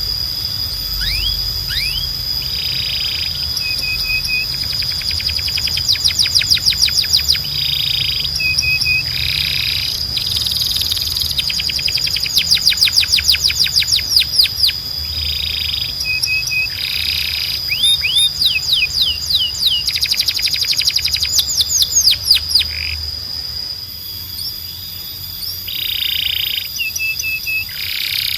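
Domestic canary singing in fast trilled rolls of quickly repeated, downward-sweeping high notes, broken by short pauses and brief held notes, over a steady high tone.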